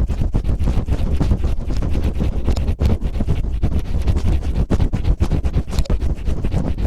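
Cellophane crinkled and rubbed right against a microphone in ear-cleaning-style ASMR: a dense, continuous crackling with a heavy low rumble from contact with the mic.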